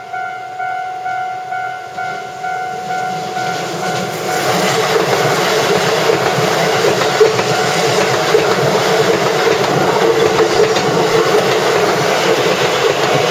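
Level-crossing warning bell dinging in a steady repeating pattern, then about four seconds in a Keisei line train runs over the crossing, and the loud rush and clatter of its wheels on the rails drowns out the bell.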